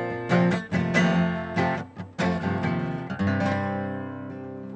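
Acoustic guitar strummed through the closing bars of a song: several strokes, then a last chord about three seconds in, left ringing and fading away.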